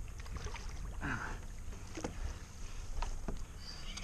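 Sounds aboard a fishing kayak during a fight with a large fish: low wind and water noise with scattered light clicks and knocks, and a short strained grunt about a second in.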